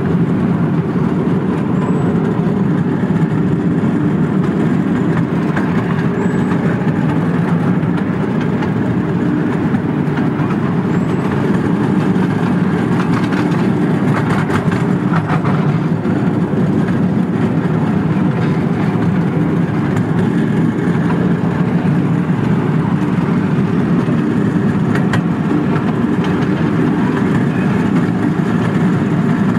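Miniature ride-on park railway train running steadily along its track, heard from a passenger wagon. It makes a continuous low rumble of the running gear with a few faint clicks from the rails.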